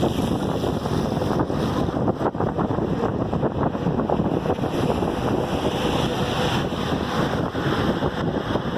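Wind rushing and buffeting over the microphone of a camera on a road bike riding at speed, a steady rough noise with constant flutter.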